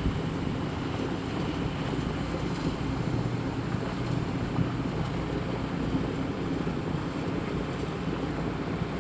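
Steady machinery drone from a generator running a package air-conditioning unit, with a low hum under an even rushing noise and no change in speed.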